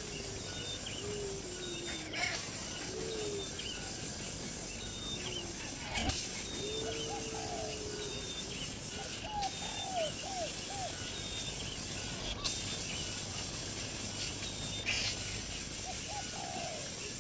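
Birds calling: a steady run of short, curving chirps that repeat throughout, with a few sharp clicks every few seconds.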